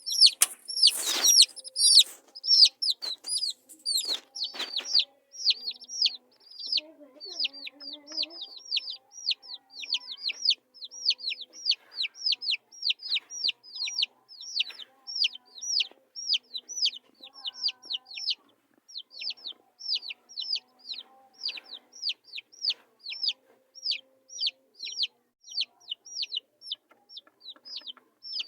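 Baby chicks peeping without a break: a stream of high, downward-sliding cheeps, several a second. A few sharp knocks sound about a second in and again around four seconds in.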